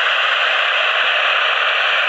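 Jet airliner engines heard as a steady, loud rushing noise with a faint high whine sliding slowly downward.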